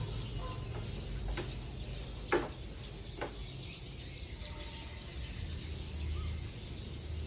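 Edible-nest swiftlets twittering as a continuous high chatter, with three sharp clicks or knocks in the first few seconds, the loudest just past two seconds in.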